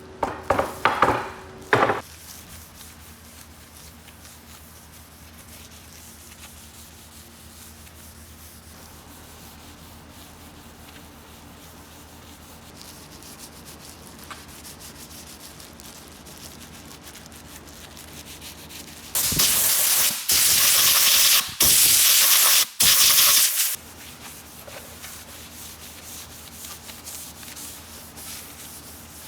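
Wood being sanded: a few short scratchy strokes at the start, a long faint hiss, then three loud stretches of about a second each starting about 19 seconds in.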